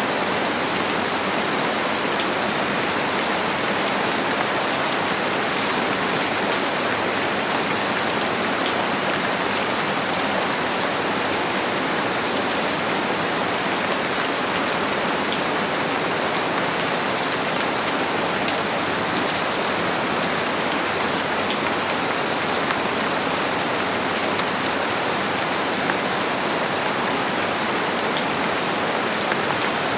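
Steady heavy rain falling on a surface, a dense even hiss full of fine drop patters, unchanging throughout.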